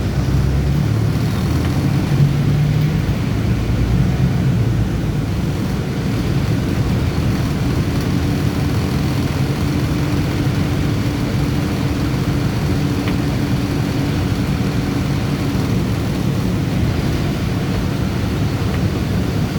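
Bus engine running with a steady low rumble, heard from inside the bus while it is driven in traffic.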